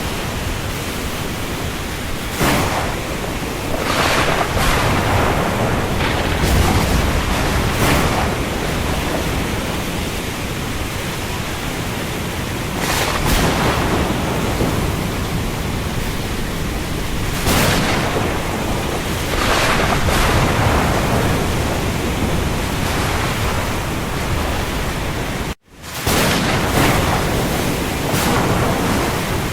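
Steady rain over the sea: a continuous hiss with waves swelling and breaking every few seconds. The sound cuts out for an instant near the end.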